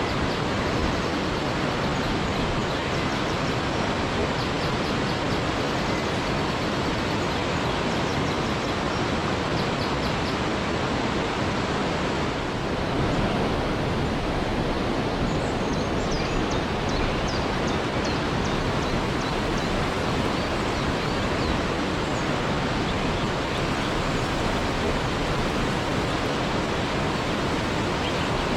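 Waterfall: a steady, even rush of falling water, with faint short high chirps now and then.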